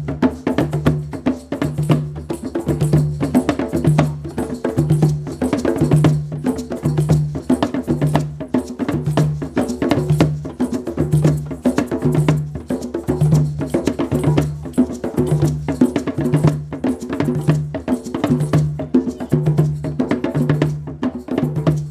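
Live percussion music: quick clicking, knocking percussion over a low tone that pulses about once a second, in a steady beat.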